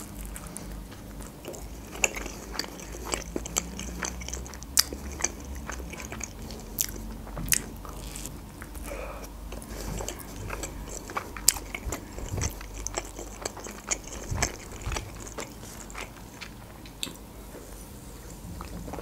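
Close-miked biting and chewing of fried khinkali, Georgian dumplings with crisp pan-fried dough: irregular crisp crunches and clicks.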